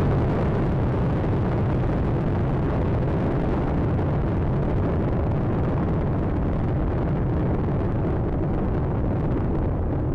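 Space Shuttle Atlantis climbing on its two solid rocket boosters and three main engines: a loud, steady rocket rumble with no break, its highest tones thinning slightly near the end as the vehicle draws away.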